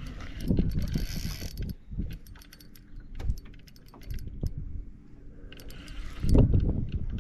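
Fishing reel being wound in during a fight with a hooked fish: gear whirring and clicking, with short hissing runs near the start and again about six seconds in, and knocks from handling the rod.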